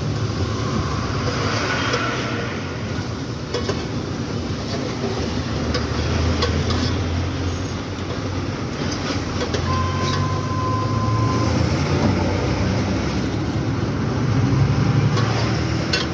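Loaded diesel lorry driving along a damaged road: a steady low engine drone under road noise, with scattered knocks and rattles. A short steady tone sounds briefly about ten seconds in.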